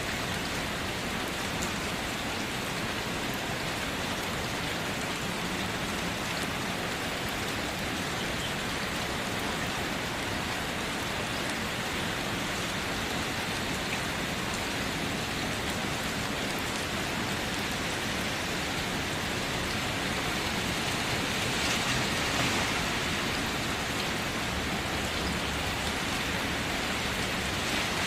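Steady rain falling, an even hiss that swells slightly about two-thirds of the way through.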